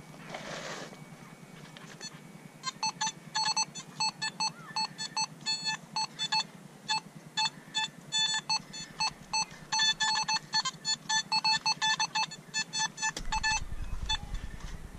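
Metal detector sounding rapid, repeated beeps of one pitch over a target, in uneven runs that stop shortly before the end. A low rumble starts as the beeping ends.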